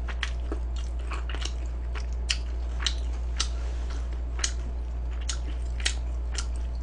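A person chewing and biting crunchy food close to the microphone, a string of crisp crunches coming irregularly about once or twice a second over a steady low hum.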